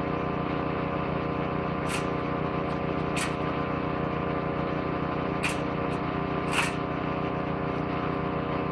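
Petrol-engined woodchipper shredder running steadily under load, with about four sharp cracks as material is chewed by the shredder drum.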